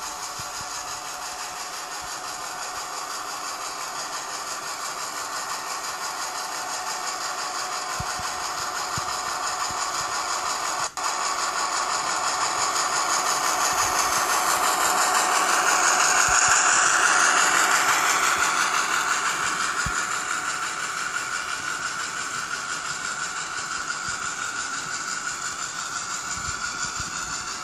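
Hornby Class 08 model shunter's DCC sound decoder playing its diesel engine sound while the model runs on the track, with light wheel clatter. It grows louder as the model comes closest about two-thirds of the way through, then fades, and cuts out for an instant about eleven seconds in.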